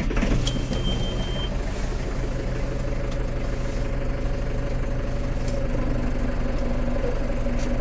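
McCormick CX95 tractor's diesel engine catching on a cold start and settling into a steady idle. A single high beep sounds for about a second just after it fires.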